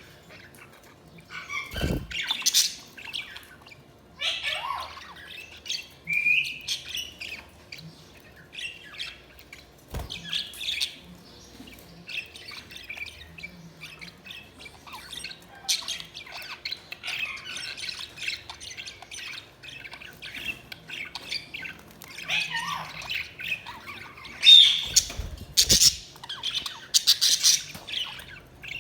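Budgerigars chirping, warbling and squawking in irregular bursts. There are a few short knocks, the loudest near the end.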